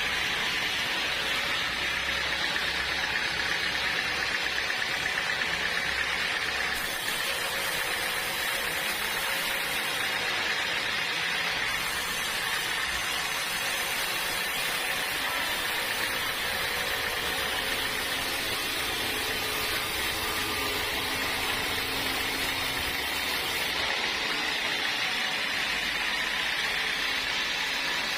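A sawmill saw cutting steadily through a hard acacia log, making a continuous mechanical whine and rasp with no break.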